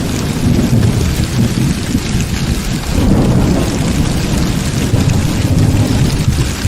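Heavy rain falling steadily under a continuous low rumble of thunder, which swells slightly partway through.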